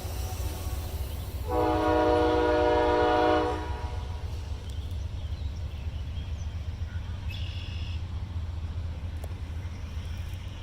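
Diesel locomotive horn sounding one blast of about two seconds, a chord of several tones, over a steady low rumble.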